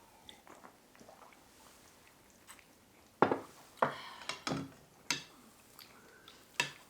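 Eating at a table: after a quiet start, a few sharp clinks and knocks of utensils against dishes, about half a dozen in the second half, some briefly ringing, with chewing.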